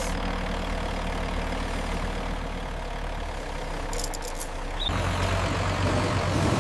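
Heavy construction-vehicle engine running steadily with a low drone. Just under five seconds in, a louder, deeper engine drone sets in.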